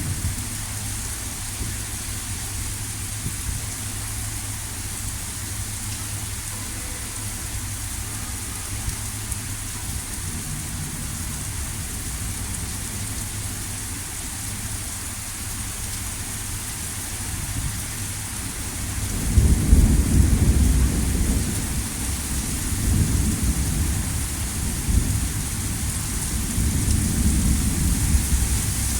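Heavy rain falling in a steady hiss during a severe thunderstorm. About two-thirds of the way through, a deep rumble of thunder rolls in and swells several times.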